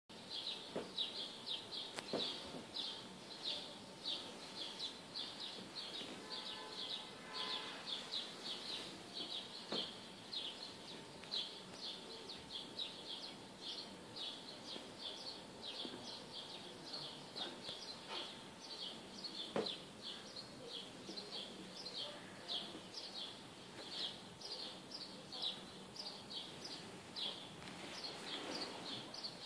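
Small birds chirping over and over, a few short high chirps a second, with a few faint clicks.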